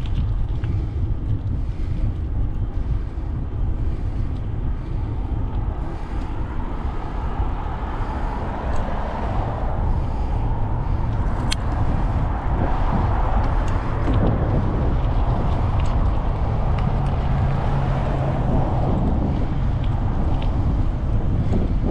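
Riding noise from a moving e-bike: wind rumbling on the microphone over a steady road noise, with a swell of traffic-like noise in the middle.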